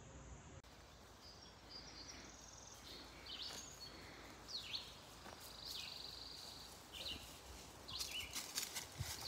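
Faint birdsong: scattered short chirps and sweeping whistled notes, with a buzzy trill about midway. Near the end, a run of crackling clicks and rustles joins in.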